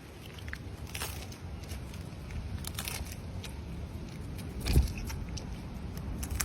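An animal crunching and chewing food, with scattered crisp crackles and one low thump a little under five seconds in.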